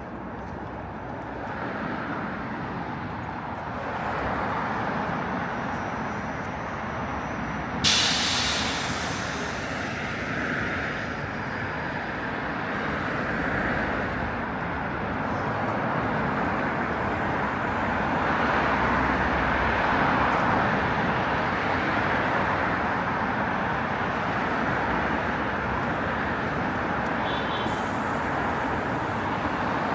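Steady city road traffic passing, with a sudden sharp hiss of a heavy vehicle's air brakes about eight seconds in that fades over a couple of seconds, and another high hiss near the end.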